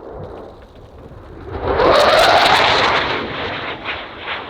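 Dassault Rafale C fighter jet's twin turbofan engines passing during a display. The jet noise swells suddenly about one and a half seconds in, with a rising tone at its loudest, then fades with some crackle near the end.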